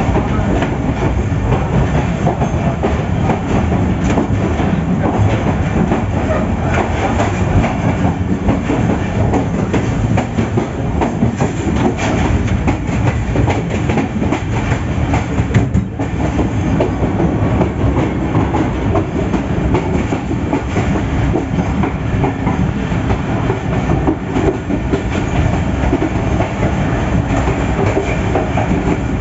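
A moving train heard from on board: the steady rumble of wheels running on the rails, with a rapid clatter throughout.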